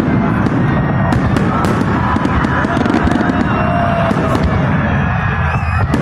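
Aerial fireworks display: a loud, continuous barrage of shell bursts and dense crackling.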